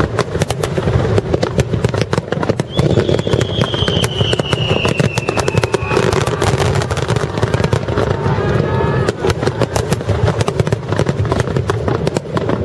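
Aerial firework shells from a starmine barrage bursting in quick succession, a dense string of bangs and crackles. A long whistle falling in pitch runs from about three to six seconds in. The barrage thins out at the very end.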